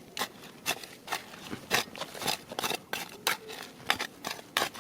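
Irregular run of sharp clicks and taps of hard objects knocking together, roughly two to three a second.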